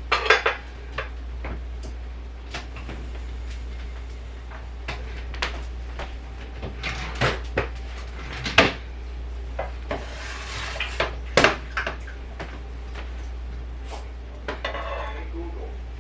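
Dishes and cutlery clinking and clattering as they are handled, in scattered knocks and clinks, the sharpest about eight and a half and eleven and a half seconds in.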